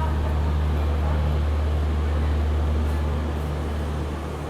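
Steady low rumble of a moving passenger train, heard on board.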